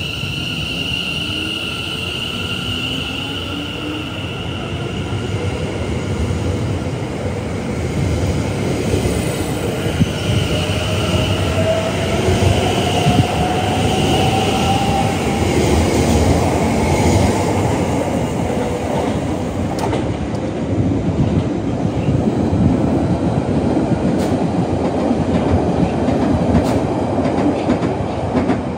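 A train running through a station with a steady high wheel squeal and a whine that rises in pitch about halfway through, over a rumble of wheels on rail that grows louder in the second half.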